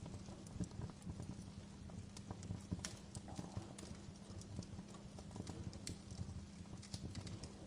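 Wood fire burning in a fireplace, crackling with irregular sharp pops and snaps over a low rumble, with a steady low hum underneath.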